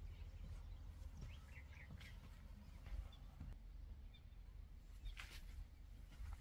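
Faint bird chirps, a few short calls scattered through, over a low steady rumble, with one sharp click about five seconds in.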